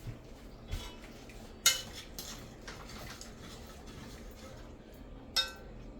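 Metal pots and utensils clinking: a few sharp strikes with a brief metallic ring, the loudest about one and a half seconds in and another near the end.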